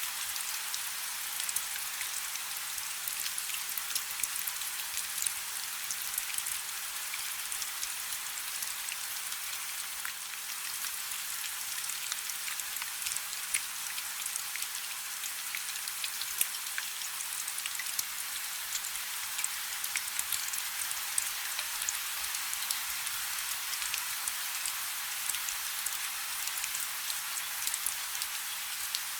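Light rain falling steadily: an even hiss with many small, crisp drop ticks scattered through it.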